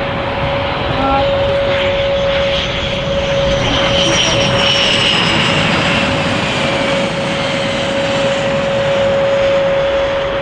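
Aircraft engines running loud and close, with a steady hum throughout and a high whine that swells and sinks slightly in pitch about midway.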